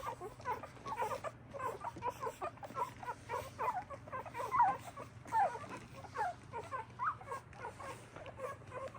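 A litter of newborn mini Bernedoodle puppies squeaking and whimpering while nursing, many short high squeaks overlapping at several a second.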